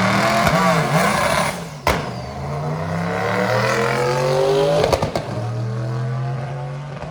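A car's engine accelerating hard on a drag run. A sharp gear change comes about two seconds in, then the pitch climbs steadily to a second shift about five seconds in. After that it runs lower and fades away.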